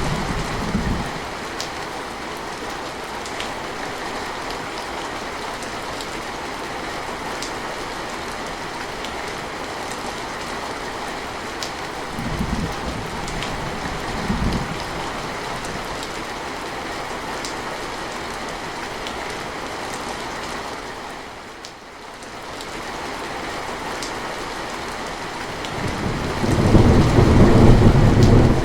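Steady rain falling, with rolls of thunder: a rumble dies away at the start, two short low rumbles come around the middle, and a louder, longer rumble builds near the end.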